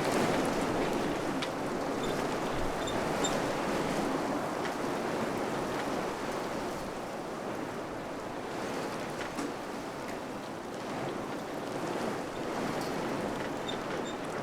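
Wind blowing steadily, a continuous rushing that swells and eases slightly, with a few faint, short high-pitched peeps now and then.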